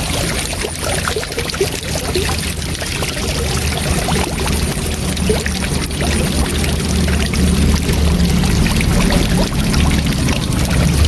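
Waterfall: a steady rush of falling water with a deep rumble underneath and small splashes over it.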